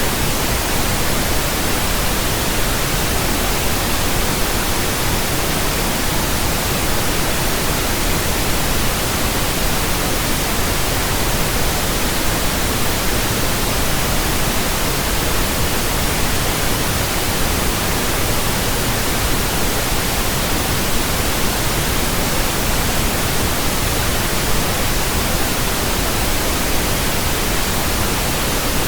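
Steady electronically generated pink noise: a continuous, even hiss spread across the whole range, unchanging throughout. It is a burn-in signal for breaking in new speakers, headphones and earphones.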